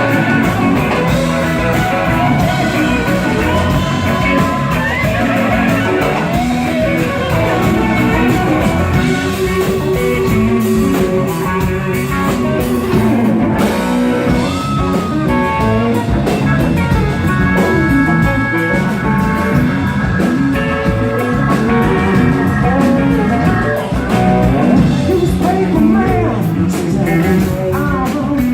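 Live rock band playing, led by guitar over bass and drums, with some singing.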